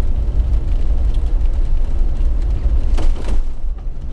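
Jeep driving on a snowy road: a steady low rumble of engine and tyres, with a brief sharper noise about three seconds in.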